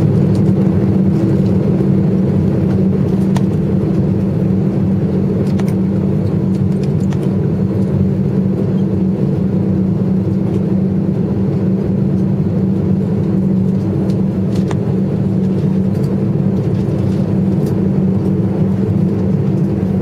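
Steady drone inside an airliner cabin after landing, from the idling jet engines and cabin air system, with two constant low hum tones and a few faint clicks.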